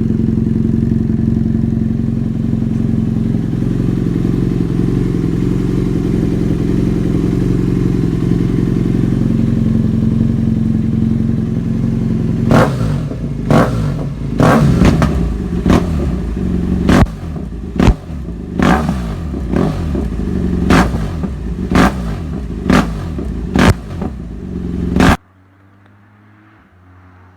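BMW F800R's parallel-twin engine, breathing through a Lextek carbon aftermarket exhaust, idling steadily. About halfway through it is revved in a string of sharp throttle blips, roughly one a second, then switched off suddenly near the end.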